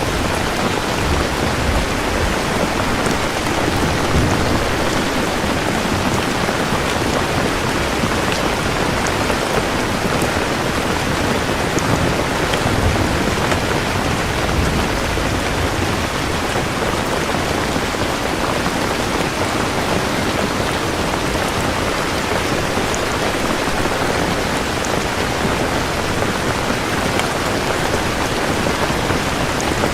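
Steady rain pouring down, an even, unbroken hiss of falling drops.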